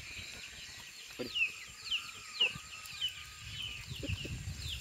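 Birds chirping: short, high peeps that fall in pitch, about two a second, with a few faint knocks.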